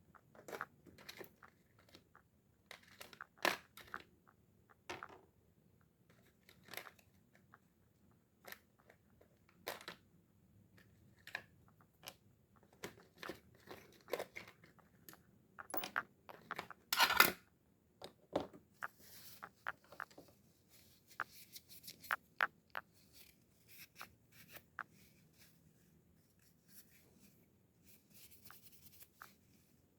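Scattered light clicks and knocks of a spinning reel's small metal parts and tools being handled during disassembly and servicing, with the loudest knock a little past halfway and some soft rustling in the later part.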